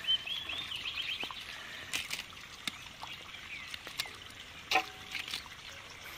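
A small bird chirps a quick run of high notes in the first second, with fainter calls after. Under it come scattered wet clicks, drips and trickles as bare hands pull apart a cleaned chicken over a bowl of water.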